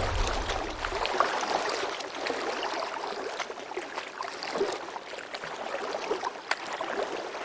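Water lapping and gurgling in small irregular splashes, with the tail of background music dying away about a second in.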